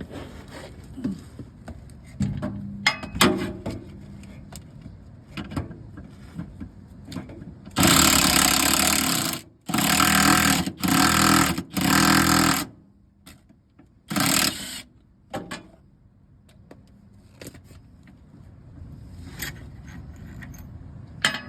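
Power tool run in four short bursts close together, then one more a moment later, driving bolts for the subframe drop kit's differential spacers. Light clinks of metal parts are handled before the bursts.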